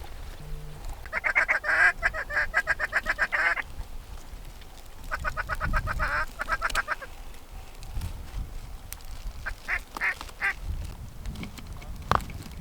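Duck-like calling: a long run of rapid quacking notes, about ten a second, then a second run a couple of seconds later and a short burst of a few notes. A single sharp click near the end.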